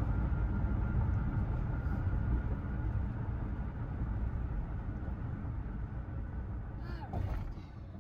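Road and wind noise of a high-top camper van on the move: a steady low rumble that slowly fades out, with a brief sliding sound near the end.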